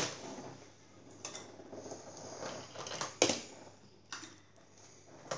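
Toy cars clicking and knocking together as they are picked up and handled: a few scattered sharp knocks, the loudest at the start and about three seconds in.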